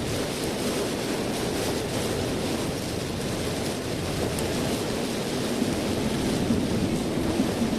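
Steady road and tyre noise with engine hum, heard inside the cabin of a car cruising on a highway.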